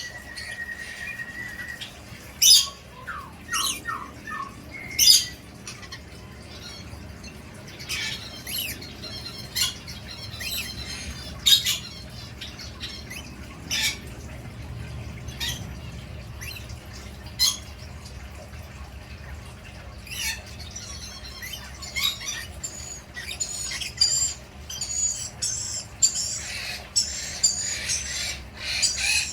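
Parrot squawking: short sharp screeching calls every second or two, turning into a busy run of chattering calls near the end.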